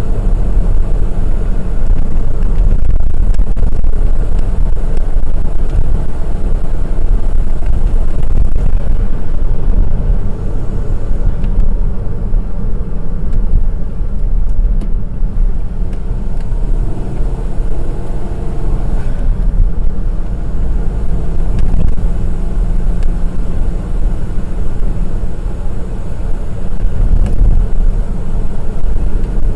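Honda S660's 658 cc turbocharged three-cylinder engine running as the car is driven along a winding mountain road, with a steady low drone of engine and road noise. The engine note shifts in pitch a little past the middle.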